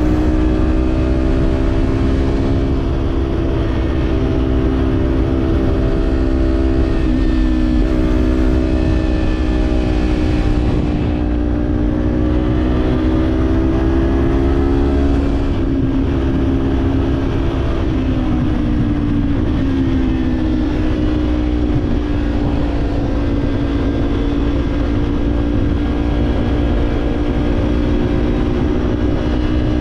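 Kawasaki parallel-twin motorcycle engine with an Orion Katya slip-on exhaust, running at a steady cruise. Its pitch wavers and dips briefly a few times as the throttle eases and comes back on.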